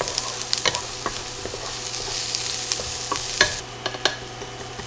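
Diced onion and garlic sizzling in hot oil in a nonstick sauté pan while a wooden spatula stirs and scrapes them, with a few sharp clicks of the spatula against the pan. The sizzle thins a little past three and a half seconds.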